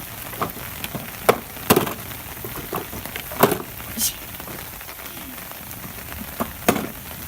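Steady rain falling, with a few sharp taps and knocks scattered through it.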